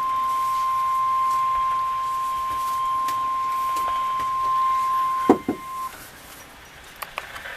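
Weather radio alert tone: one loud, steady high beep at a single pitch, the warning alarm tone that comes before a National Weather Service severe weather broadcast. It cuts off a little over five seconds in with a couple of sharp clicks, followed by a few fainter clicks.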